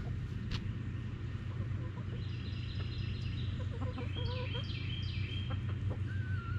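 Chickens clucking and calling, with short clucks about four seconds in and a longer call near the end. A run of high, repeated chirps and a steady low hum sound underneath.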